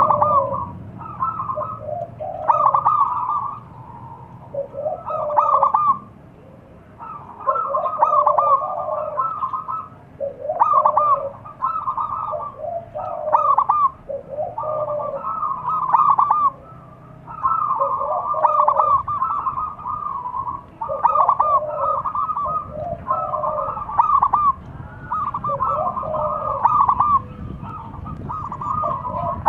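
Zebra doves (perkutut) cooing: repeated bouts of quick, staccato cooing notes with short pauses between them.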